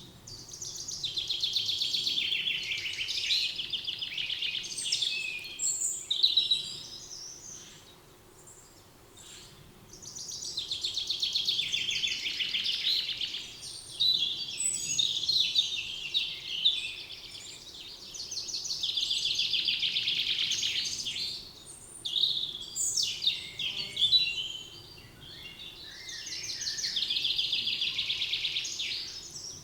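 Forest birdsong: one bird repeatedly sings a long, high, rapid trill of about three to four seconds, roughly every eight seconds, with other birds' shorter chirps between the songs.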